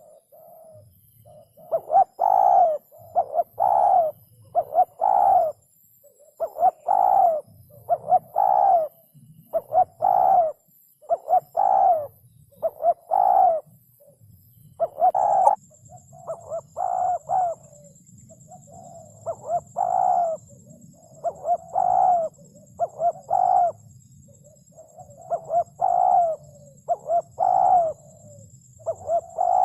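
Spotted dove cooing over and over: short, hollow coo notes in groups of two or three, about one to two notes a second.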